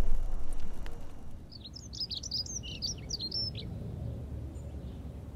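A songbird sings one quick, varied phrase of sweeping chirps lasting about two seconds, starting about a second and a half in, over a steady low rumble. In the first second a few sharp knocks sit over a louder rumble.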